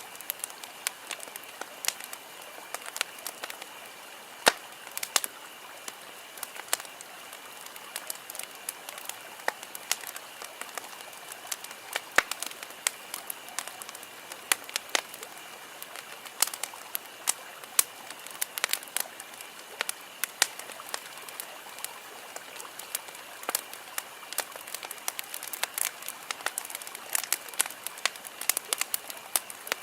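Wood campfire burning, crackling with frequent irregular sharp pops and snaps over a steady soft hiss.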